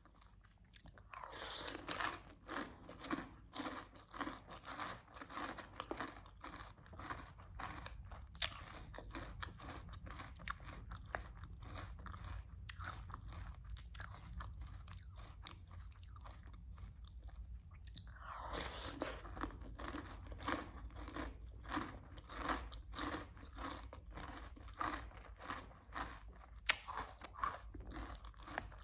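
Close-up mouth sounds of crunching and chewing chocolate cereal soaked in chocolate milk, in two bouts of rhythmic crunching: the first starts about a second in, the second about two-thirds of the way through, with quieter chewing between.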